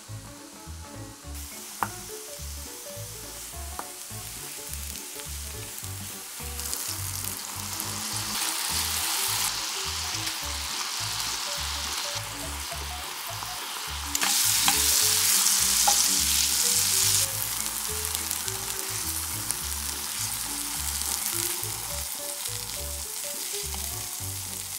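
King oyster mushroom slices sizzling in a frying pan, first in butter and then in a bubbling soy-sauce glaze. The sizzle grows louder in steps and is loudest for a few seconds about two-thirds of the way through. A few light clicks of chopsticks and a spatula sound against the pan.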